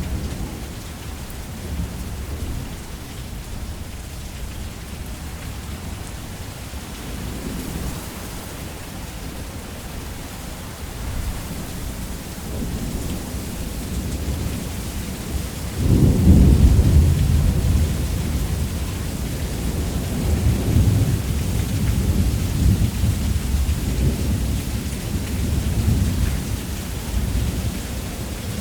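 Thunderstorm: steady heavy rain hiss with low rolling thunder. A louder thunder clap comes about halfway through and keeps rumbling in waves to the end.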